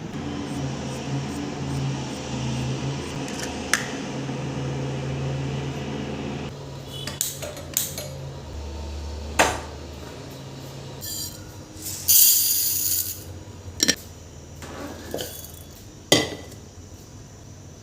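Kitchen utensils and dishes clinking and knocking, several separate sharp strikes, over a steady low hum that stops about eight and a half seconds in. A short loud hiss comes about twelve seconds in.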